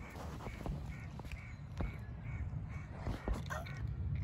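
A bird calling in a quick run of short, even, repeated notes, about three a second, that stop about three seconds in.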